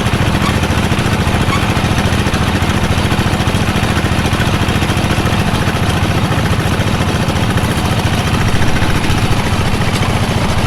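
Engine of a bore pile drilling machine running steadily, with a fast even chugging pulse.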